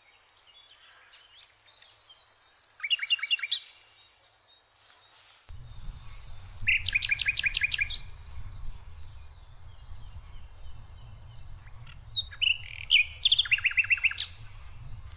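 Songbirds chirping in three bursts of quick repeated notes, each lasting about a second and a half. A low rumble comes in suddenly about five seconds in and continues underneath.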